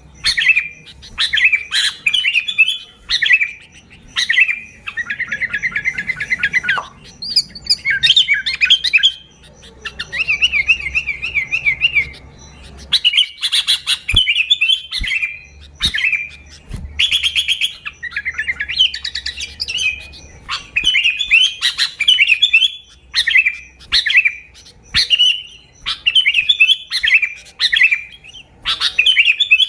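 Sooty-headed bulbul calling busily: short bright chirping phrases about a second apart, with a couple of longer rapid trills of repeated notes.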